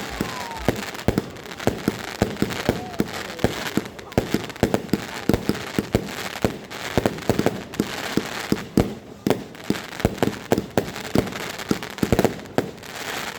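Lesli Neon Outburst firework battery firing: a rapid, irregular run of shots and bangs, several a second, with a steady hiss between them.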